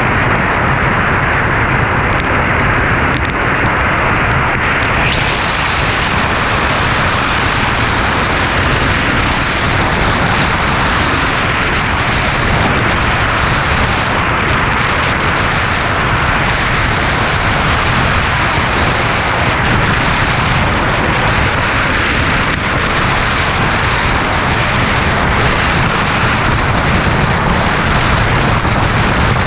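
Loud, steady noise of hurricane wind and heavy rain, with a low rumble throughout and no let-up.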